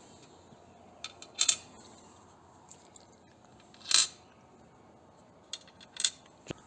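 Small metal parts and hand tools being handled as a bracket is fitted to an engine guard plate: a scattering of sharp clinks and clicks, some in quick pairs, the loudest about four seconds in.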